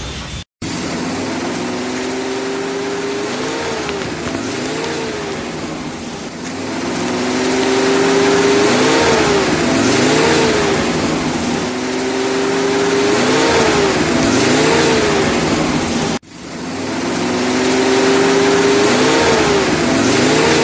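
Car engine revving sound effect, repeating about every five seconds: a steadily rising pitch, then two quick revs up and down, over a loud roar. It cuts out briefly just after the start and again about three-quarters of the way through.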